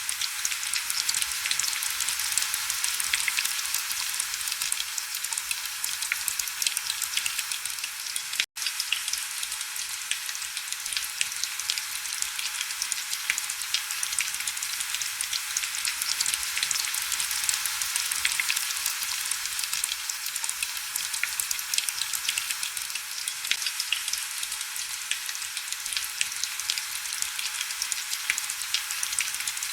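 Heavy rain falling steadily against window glass: a dense, even hiss of drops with many small ticks. It cuts out for a split second about eight seconds in.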